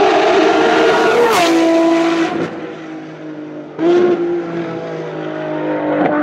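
Racing car engines on track: a high-revving engine whose note drops sharply in pitch about a second in and fades, then another engine comes in suddenly and loudly about four seconds in and holds a steady note.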